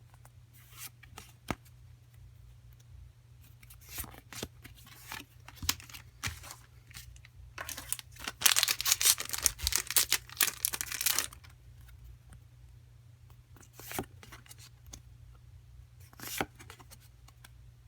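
Foil wrapper of a Japanese Pokémon booster pack being torn open, a dense crinkly rip lasting about three seconds, starting about eight seconds in. Around it, scattered light clicks and rustles of cards being handled.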